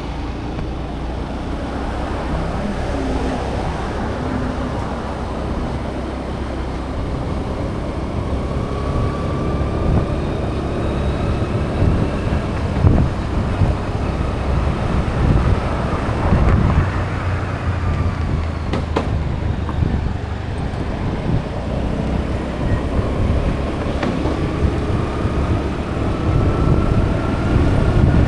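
Vehicle engine and road noise heard from on board while driving, a steady low rumble with wind buffeting the microphone. The engine note climbs near the end as the vehicle speeds up.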